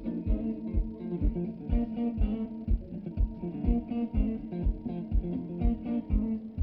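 Live blues guitar music with bass, over a steady low thump about twice a second.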